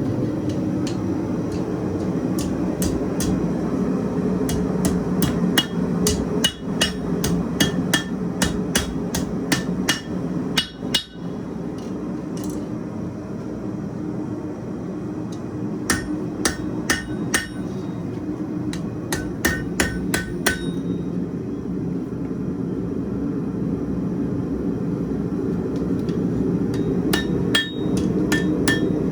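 Hammer striking hot 1/4-inch square steel bar on an anvil in runs of quick blows, each with a bright ring, bending the bar over 90 degrees. Under it, a propane forge burner runs steadily.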